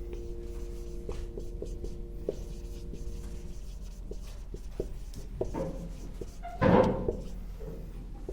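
Writing on a classroom board: a run of light taps and strokes, with a louder brief thump a little under seven seconds in. A steady low hum stops a few seconds in.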